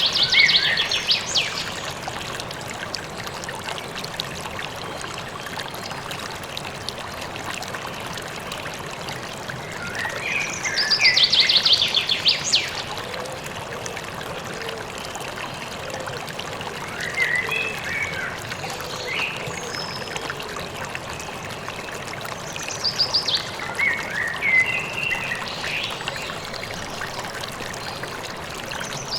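Steady rush of a flowing stream, with a songbird singing short phrases every several seconds: a fast high trill followed by a few chirps, at the start, about ten seconds in, and again several times later.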